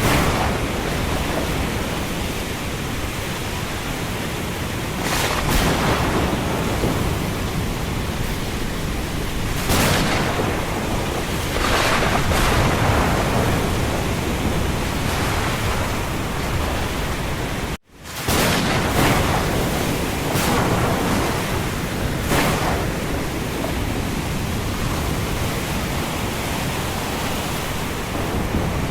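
Storm ambience: a steady rush of wind and rain with gusts swelling up every few seconds. It cuts out for an instant about two-thirds of the way through, then resumes.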